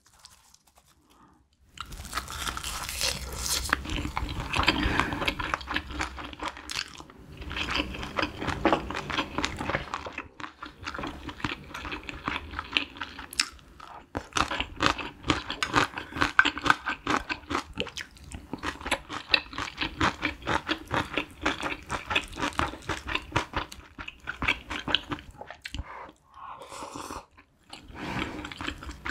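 Close-miked chewing: a bite of roasted laver wrapped around rice, egg roll and spicy braised cutlassfish, crunched and then chewed with many small wet clicks. It starts about two seconds in and pauses briefly near the end.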